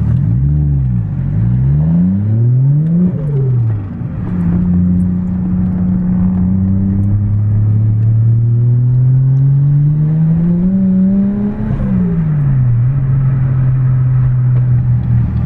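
Toyota Chaser's 1JZ-GTE turbocharged straight-six pulling away hard from a stop: the revs climb and fall back at each gear change in the first few seconds, build in one long pull, then drop at a shift and settle to a steady cruise.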